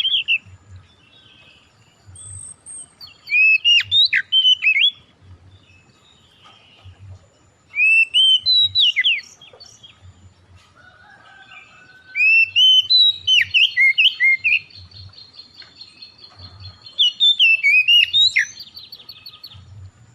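Songbird singing in bursts of quick, rising whistled notes, four loud phrases with quieter pauses between.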